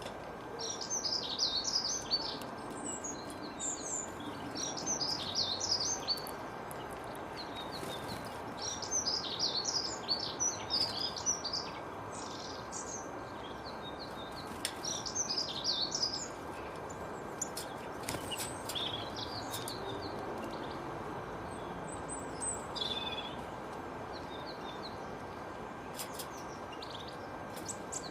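Songbird singing: high, twittering phrases a couple of seconds long, repeated after short pauses, over a steady background hiss.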